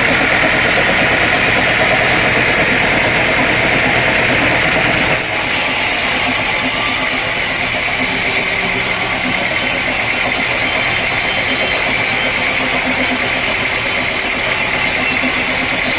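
Sawmill machinery running steadily with an engine-like drone. The sound changes abruptly about five seconds in and becomes brighter and hissier.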